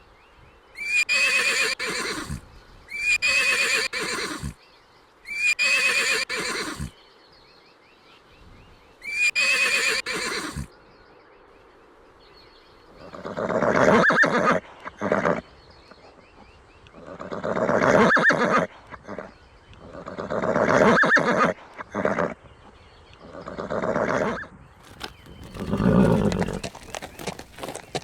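Horse neighing over and over: four short, high whinnies in the first half, then a run of longer, lower calls about every three to four seconds.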